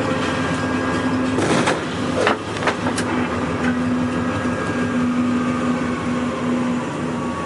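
Steady running noise of a freight locomotive heard from inside the cab, with a low on-and-off hum and three sharp cracks about a second and a half, two and a quarter, and three seconds in.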